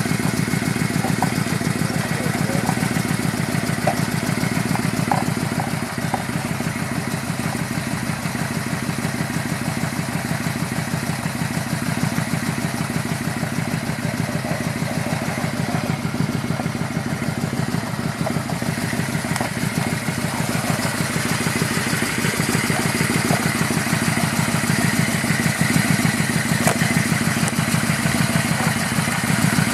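Motorcycle engine running steadily with an even pulsing, growing a little louder in the last third.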